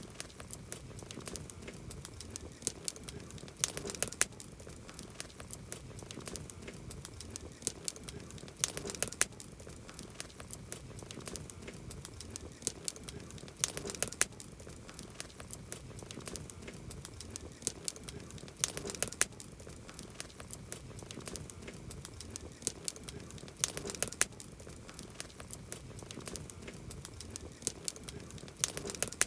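Wood campfire crackling: a steady run of small snaps and pops, with a louder flurry of pops about every five seconds.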